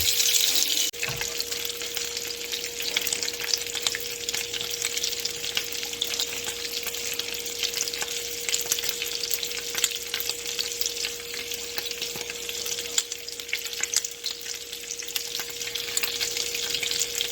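Bacon-wrapped chicken skewers sizzling as they fry, a steady dense crackle of fat popping, with a faint steady hum underneath.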